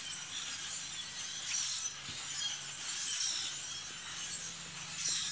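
A dense chorus of many marsh birds calling and chirping over one another, with a few louder bursts of calls about a second and a half, three and five seconds in.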